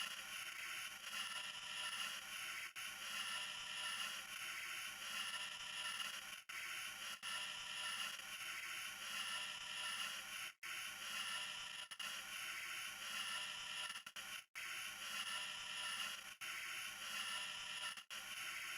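A pen scraping across paper in repeated strokes, swelling and fading about once a second, with a few brief breaks.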